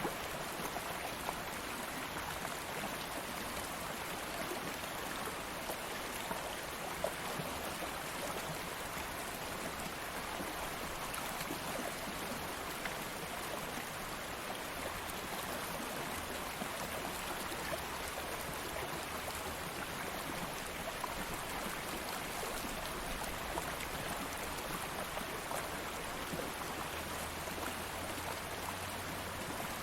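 Stream of water flowing steadily, a continuous even rushing with small splashes and drips throughout.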